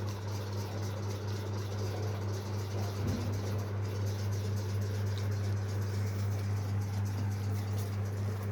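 Steady low machine hum with a faint hiss behind it, and a brief soft disturbance about three seconds in.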